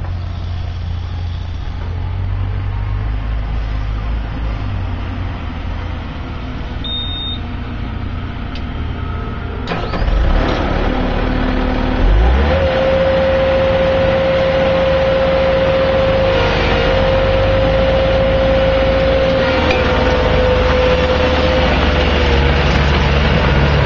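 Bobcat skid-steer loader's engine running steadily, then revving up about ten seconds in, with a steady whine joining about two seconds later and holding until near the end.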